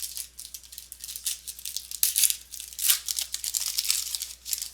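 A foil trading-card pack wrapper being torn open and crinkled in the hands: a run of irregular crackly rustles.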